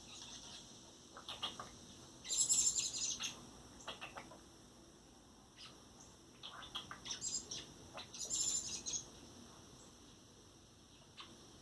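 Young robin chirping and cheeping with short, high calls, including two louder bursts of rapid chirps, about two seconds in and again about eight seconds in. These are begging calls while it is hand-fed.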